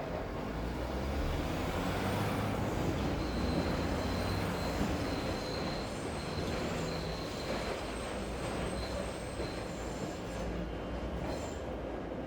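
Train passing in a layered city ambience: a low rumble that swells over the first few seconds, with a thin high whine held for a few seconds, over a steady wash of noise.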